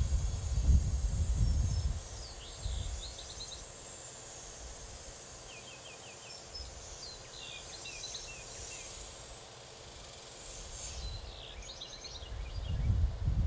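Small songbirds chirping, with short quick runs of high chirps scattered through. A low rumble is loudest in the first two seconds and again near the end.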